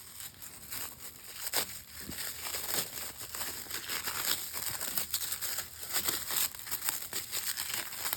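Packing material being crinkled and rustled as a box is unpacked by hand: continuous irregular crackling and rustling.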